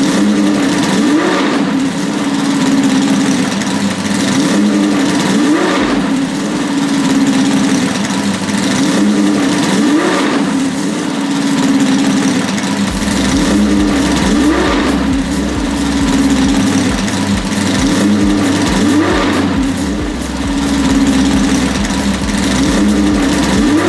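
Car engine sound effect, a steady running drone with a short rev rising in pitch about every four and a half seconds, like a loop. About halfway through, a steady electronic bass beat joins underneath.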